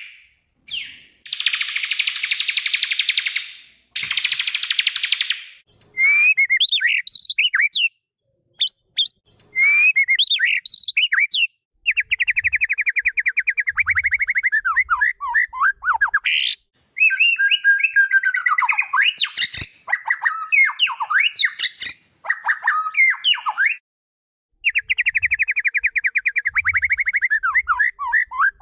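White-rumped shama (murai batu) singing: fast buzzy rattling trills alternate with varied whistled phrases that slide up and down in pitch, with brief pauses between the bouts.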